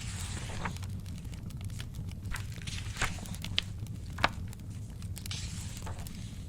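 A crackling fire with a few sharp pops about halfway through, over a steady low rumble, while a paper page is turned twice: once at the start and once near the end.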